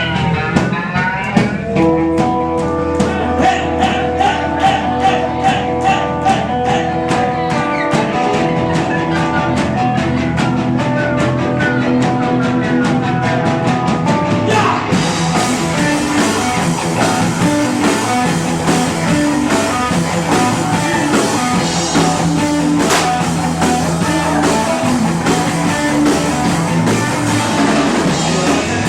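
A rock band playing live, with a steady drum beat under sustained guitar notes; about halfway through the music turns fuller and brighter as the band plays harder.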